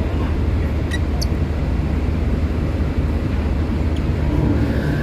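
Steady low drone of a ferry's engines, with two brief high chirps from lovebirds about a second in.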